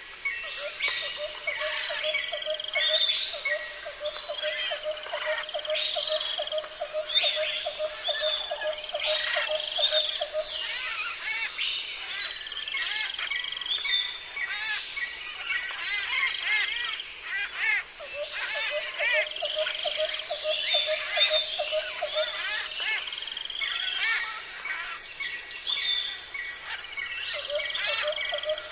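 Nature soundscape of many birds chirping and calling in short rising and falling notes over a steady high insect drone. A low, fast-pulsing trill comes and goes three times.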